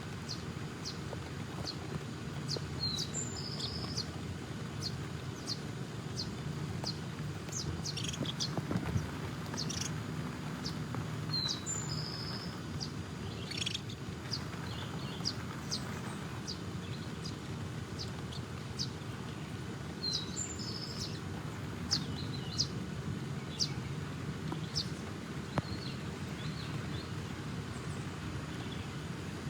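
Small birds chirping with short, high, repeated notes, and a brief song phrase that comes back about every nine seconds, over a steady low hum.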